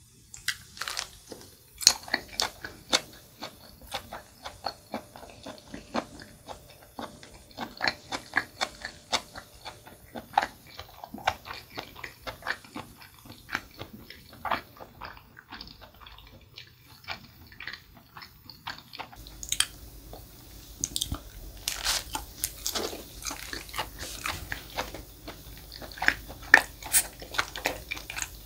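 Close-miked eating of jokbal (braised pig's trotters): steady chewing full of sharp, wet mouth clicks and crunches.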